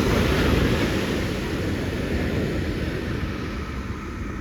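Ocean surf breaking and washing up the beach: a loud, even rushing noise with a deep rumble, loudest at the start and slowly easing off.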